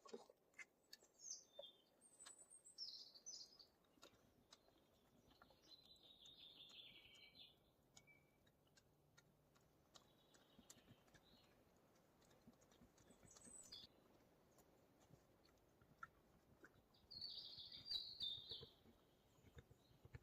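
Faint songbird chirps and short high song phrases, four or so separated by quiet stretches, with scattered faint clicks.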